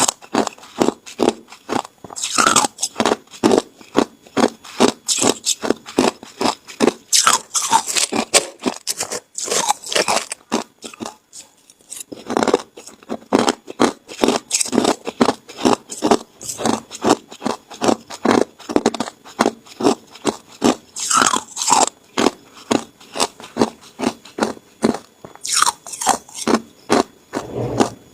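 Ice being bitten and chewed up close: a steady run of crisp crunches at about three a second, with a few sharper bites and a short pause about halfway through.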